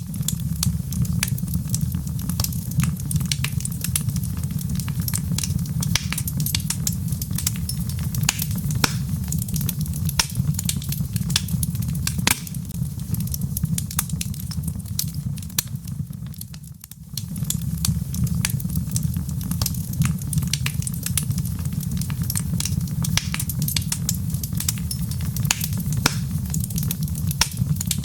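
Wood fire crackling in a fireplace: dense, irregular sharp pops and snaps from the burning logs over a steady low rush of flame. The sound dips briefly about two-thirds of the way through, then carries on.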